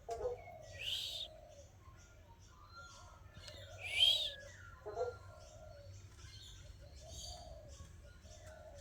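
Bird calls: two loud, high, sweeping calls about one and four seconds in, over softer, lower calls that repeat every second or two.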